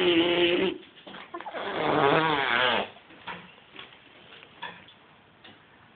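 An animal's drawn-out vocal calls: a held, steady note that stops under a second in, then a second, warbling call with a wavering pitch lasting about a second and a half.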